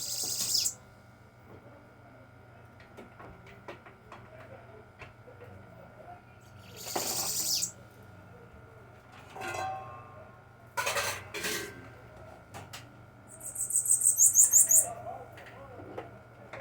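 Bananaquit singing one rapid, high trill of about ten notes near the end. Earlier come a few brief hissing rustles and knocks.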